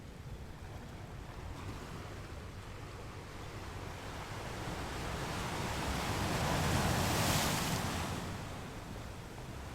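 Ocean waves breaking on a beach: a wash of surf swells up about halfway through, is loudest around seven seconds in, then recedes.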